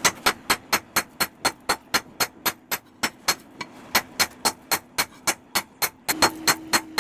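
Hammer striking steel on an anvil in a fast, even rhythm of about four blows a second, with a steady metallic ring between blows. The blows grow louder and the ring rises slightly about six seconds in.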